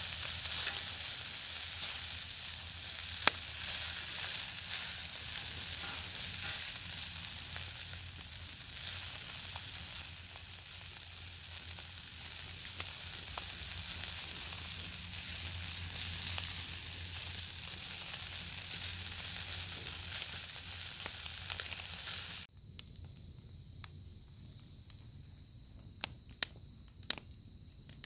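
Bacon frying over a fire: a dense, steady sizzle with scattered small pops. About 22 seconds in it cuts off suddenly, leaving a much quieter steady high hiss with a few sharp clicks.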